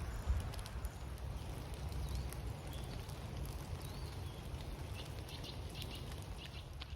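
A few short bird chirps in woodland over a steady low rumble of wind or handling on the microphone, with a run of faint ticks near the end.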